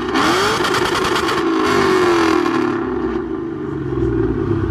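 Mustang's engine being revved while parked: the engine note climbs quickly shortly after the start, then falls slowly back toward idle over the next couple of seconds.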